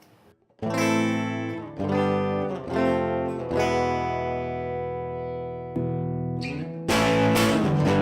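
Fender Stratocaster on its bridge pickup, played through a Snarling Dogs Black Dog overdrive/distortion pedal, recorded direct with a little reverb. A few chords are struck about a second apart, one left ringing for a couple of seconds, then louder continuous strumming starts about seven seconds in.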